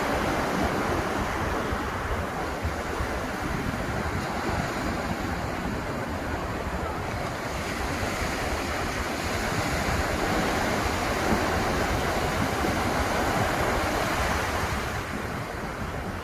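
Ocean surf washing onto a beach in a steady rush, swelling a little louder about ten seconds in, with wind rumbling on the microphone.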